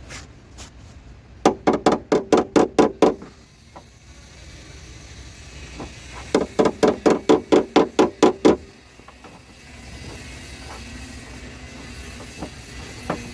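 Two runs of rapid, evenly spaced knocks, about five a second, each lasting about two seconds, with a pause between them.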